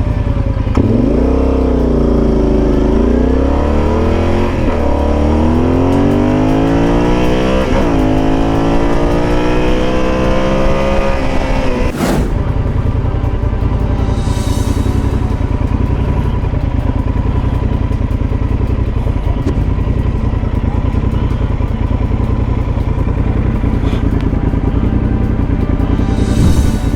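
Motorcycle engine accelerating, climbing in pitch with several brief dips as it shifts gears. A single sharp knock follows, and then steady riding with wind rush.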